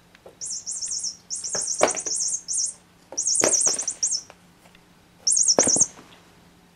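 Bird-shaped squeaky cat toy chirping in quick cheeps, set off as it is bitten or shaken: about five bursts of chirping with short gaps, and a few knocks mixed in.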